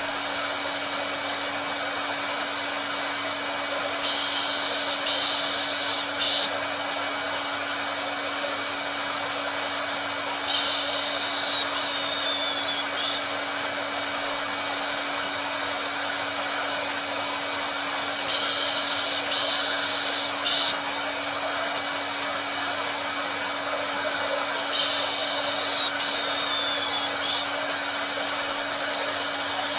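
Hair dryer running steadily: a dense rushing hiss over a constant motor hum. Brief brighter, hissier surges come back about every seven seconds.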